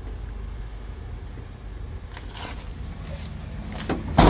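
Low, steady rumble with a few faint knocks, then one loud, sharp thump about four seconds in.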